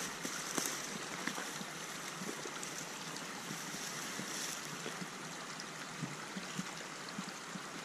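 Tiny mountain stream's water running steadily, with a few faint ticks.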